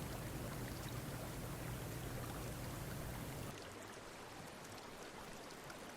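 Stream water rushing steadily, which drops to a quieter, thinner sound about three and a half seconds in.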